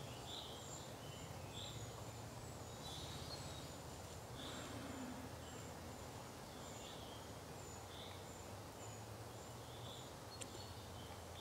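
Quiet woodland ambience: faint, distant bird chirps about once a second over a low, steady hum of background noise.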